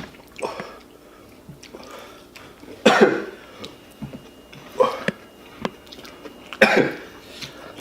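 A person coughing and clearing the throat: three short, sudden bursts a couple of seconds apart, with faint small clicks between.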